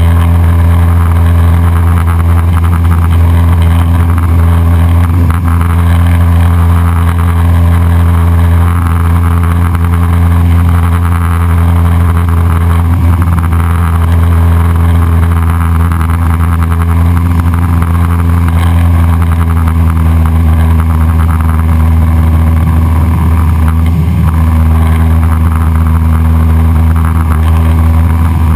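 Cessna 172SP's four-cylinder Lycoming engine and propeller running at a steady power setting: a loud, unchanging low drone.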